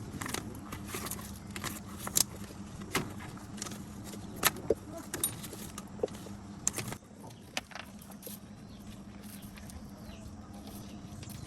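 Irregular sharp metallic clinks and taps, like tools and metal parts being handled, over a steady low hum; the clinks stop about seven seconds in, leaving the hum.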